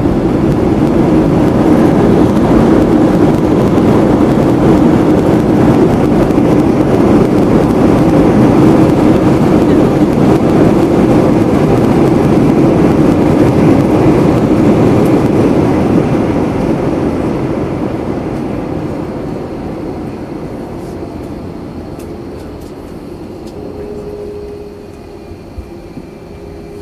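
Cabin noise of an Airbus A321-231 on its landing rollout: the IAE V2500 engines and airflow rise to a loud, steady roar, typical of reverse thrust and braking, then die away over the last ten seconds as the aircraft slows.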